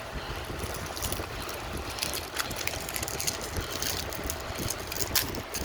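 Low rumbling handling noise on a handheld camera's microphone, with scattered crackles and clicks from about half a second in and a sharper click near the end.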